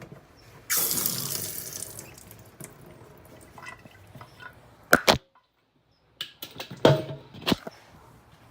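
Water rushing inside a dishwasher at the end of its cycle, loud for about a second and then fading, followed by a few sharp clicks and knocks. The sound cuts out completely for about a second near the middle.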